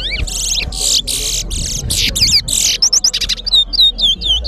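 Towa-towa finch (large-billed seed-finch) singing a fast, varied song of buzzy trills and slurred whistles. From about three seconds in it becomes a run of repeated swooping whistled notes, several a second.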